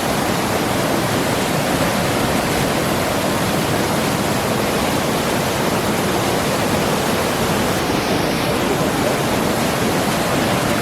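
Orakkuzhi waterfall: water plunging down into a deep rock pit, a loud, steady, unbroken rush.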